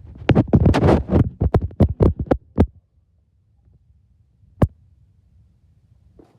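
Old truck's engine cranking over on the starter on a cold morning: a fast, uneven chugging of about six beats a second that stops after about two and a half seconds without the engine catching. A single sharp click follows about two seconds later.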